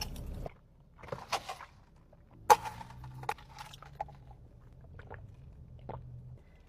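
Close-up eating sounds: a few crunchy bites and scattered chewing clicks, the sharpest about two and a half seconds in.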